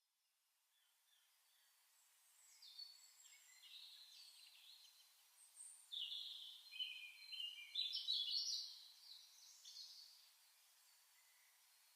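Several birds calling and chirping over a faint outdoor hiss, the calls thickest and loudest between about six and nine seconds in.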